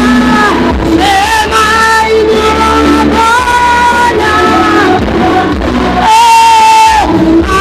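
Worship song with singing over band accompaniment, including one long held note about six seconds in.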